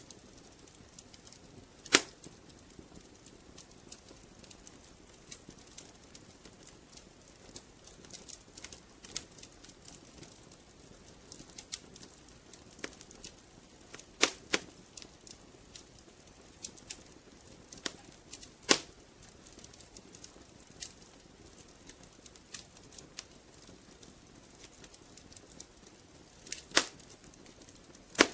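Wood fire crackling: a steady scatter of small irregular crackles over a faint hiss, with a handful of sharp, louder pops spread through.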